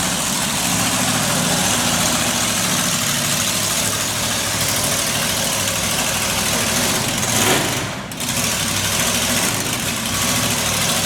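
Monster truck's 509-cubic-inch big-block racing engine running loud and steady, with a brief surge about seven seconds in and a short dip just after.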